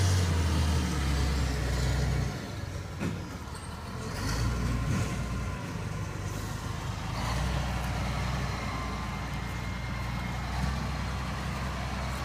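Diesel engine of heavy earthmoving equipment running with a low drone, easing off about two seconds in and building again about seven seconds in.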